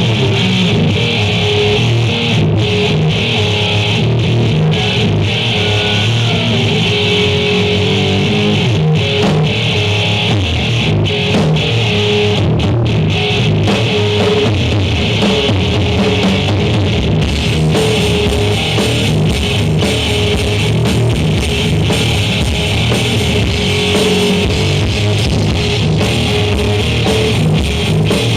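Live rock band playing: electric guitar and drum kit, loud and continuous, with a repeating guitar figure.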